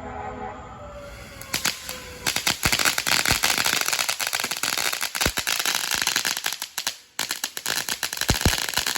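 Consumer firework going off in a dense, rapid run of crackling pops and bangs, starting about a second and a half in, dipping briefly near the end and then stopping. A distant emergency siren wails at the start.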